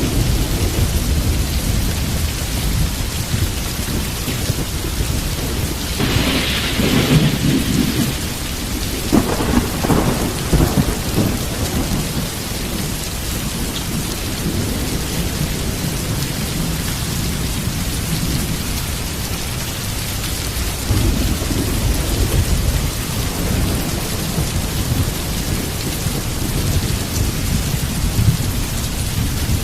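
Heavy rain pouring steadily under a thunderstorm, with thunder rumbling low throughout. Louder peals swell about six seconds in and again around nine to eleven seconds.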